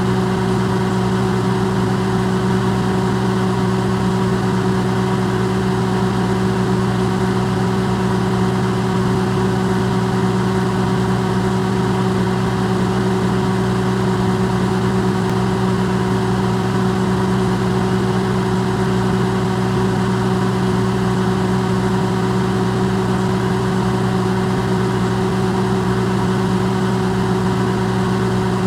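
Electrolux microwave oven running: a steady, unchanging low hum with a hiss over it.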